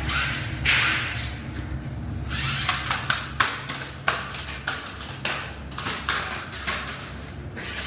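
Toy RC rock crawler truck running, a steady low motor hum under many sharp clicks and knocks as it bumps over hard surfaces, with short bursts of hiss.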